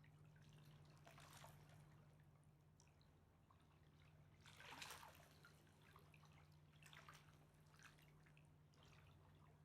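Faint Mississippi River water lapping at the bank: a scattering of small, soft splashes and drips, the loudest about five seconds in, over a steady low hum.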